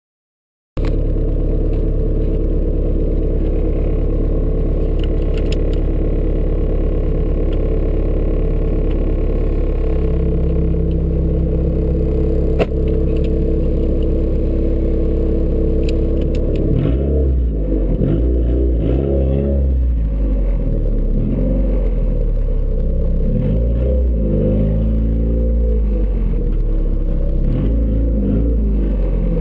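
Turbocharged Ford Escort ZX2's 2.0-litre four-cylinder engine running through a custom 3-inch side-exit exhaust. It idles steadily, then is revved up and down repeatedly over the last dozen seconds.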